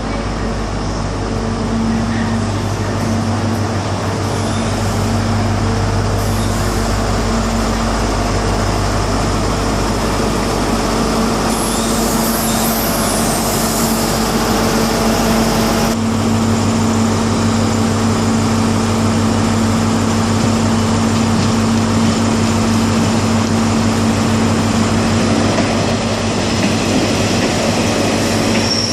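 Diesel train engines running at a station platform: a steady low engine hum, with a brief high metallic squeal near the middle. The deepest part of the hum drops away a little past halfway while the rest runs on.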